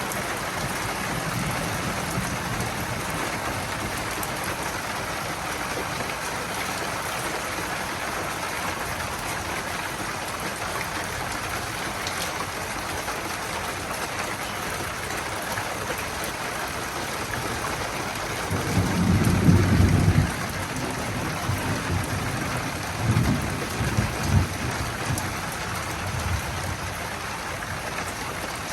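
Steady rain hissing throughout a thunderstorm. About two-thirds of the way in a low rumble of thunder swells for a couple of seconds, followed a few seconds later by a few shorter low rolls.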